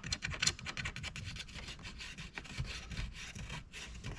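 A nut being threaded onto its stud by hand: a quick run of small scraping ticks as the threads turn.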